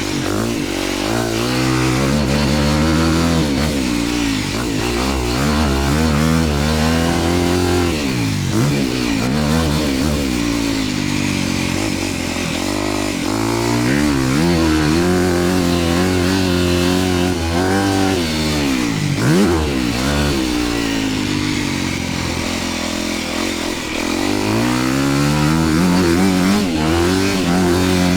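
Dirt bike engine under riding load, its pitch climbing through the revs and dropping off again several times as the bike accelerates, shifts and backs off around a motocross track.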